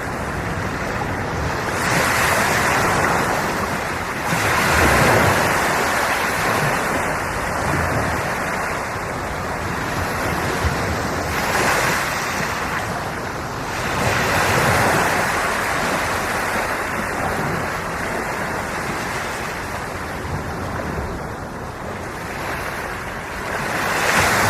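Sea waves breaking and washing in, a steady rush of surf that swells louder every few seconds as each wave comes in.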